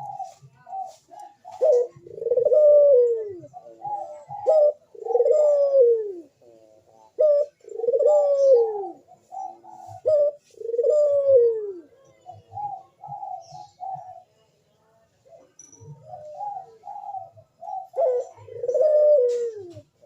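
Crossbred domestic collared dove (burung puter) in breeding condition, cooing over and over: runs of short notes broken by several long, falling coos. Faint chirps of other small birds are heard now and then.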